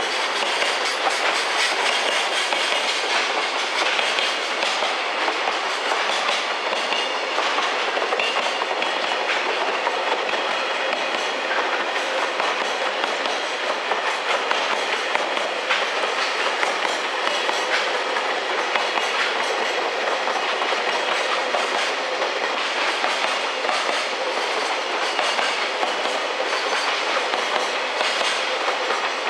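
Freight train wagons rolling past at steady speed: an even noise of wheels on rail with faint repeated clacks from the wheels over the rail joints.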